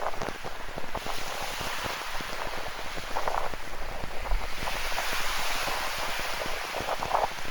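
Rain falling, with many close drop ticks, over the hiss of ocean waves; a wave's wash swells up in the middle and eases off again.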